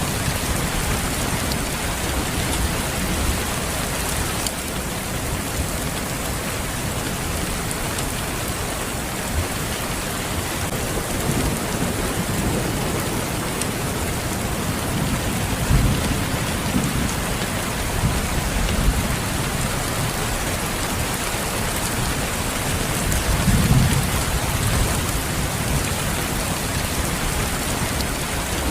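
Steady rain falling, with low rumbles of thunder swelling a few times, the strongest about three-quarters of the way through.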